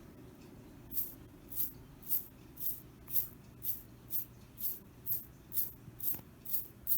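Short, hissy rubbing swishes, about two a second, from a Mercedes-Benz W113 steering wheel being turned quickly back and forth around its horn contact.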